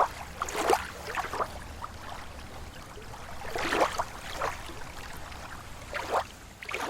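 Lake water lapping against the shore: small irregular splashes and sloshes every second or two over a soft wash of moving water.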